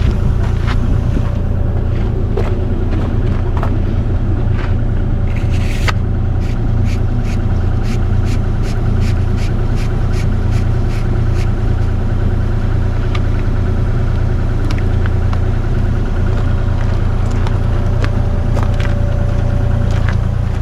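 Excavator's diesel engine running steadily with a loud low rumble. A run of light, evenly spaced clicks comes through for several seconds in the middle.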